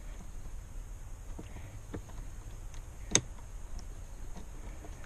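Light clicks and knocks of car interior parts being handled, with one sharp click about three seconds in, over a low steady hum.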